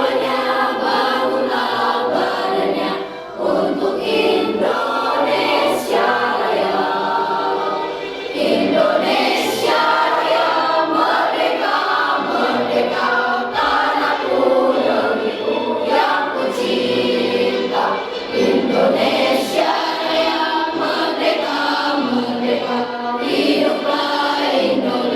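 A student choir singing a song together in many voices.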